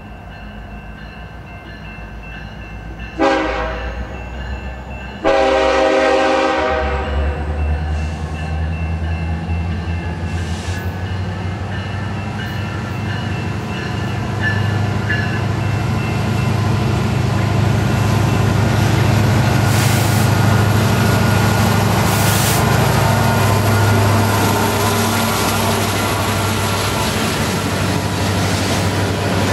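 Diesel freight locomotive's horn sounds a short blast, then a longer one. Then the two lead diesel locomotives rumble past, followed by the steady clatter of freight cars rolling by.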